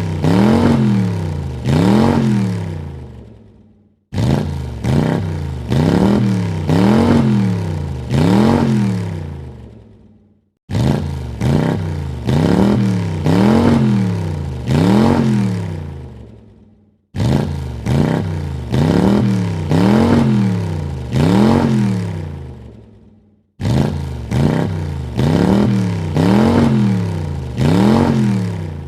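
Car engine revved in quick blips, about four per burst, each rising and falling in pitch. Each burst fades out and is followed by a brief silence. The same burst repeats about five times.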